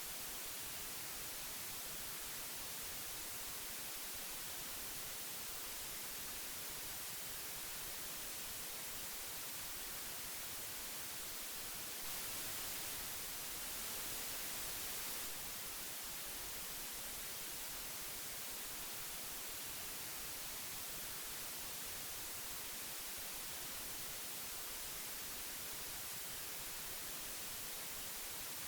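Old magnetic tape hiss: a steady, even hiss weighted toward the high end, a little louder for about three seconds midway.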